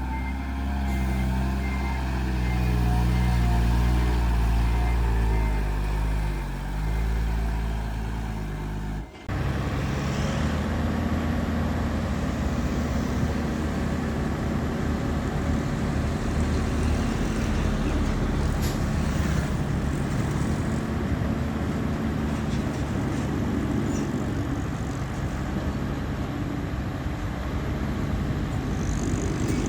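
Heavy diesel earthmoving machinery running. A deep engine note rises and falls for about nine seconds, then cuts off suddenly and gives way to a rougher, noisier engine sound.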